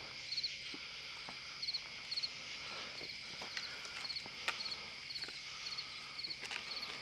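Night insects: crickets chirping in short repeated groups of high pulses over a steady insect drone, with scattered faint clicks.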